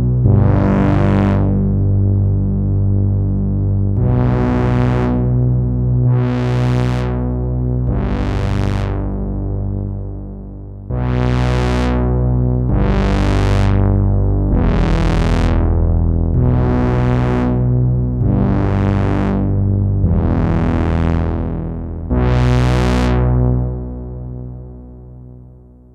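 Sequential analog polyphonic synthesizer playing sustained chords over a low bass note. Each chord starts bright and mellows as it decays, about every two seconds, with a fade near the end.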